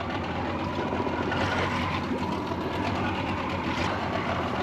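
A boat engine idling steadily.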